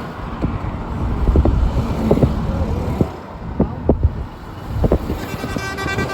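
Low engine rumble with wind on the microphone and scattered knocks; a horn starts to sound faintly near the end.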